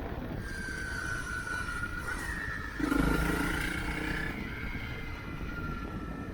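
Motorcycle engine running while riding, its note sinking slowly as it rolls off, then picking up with a brief louder surge about three seconds in before sinking again. Wind rumble on the microphone.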